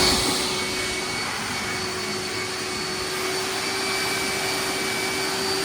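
Hoover dual-tank wet/dry vac running steadily on wet pickup, a rush of air with a steady high whine and a lower hum.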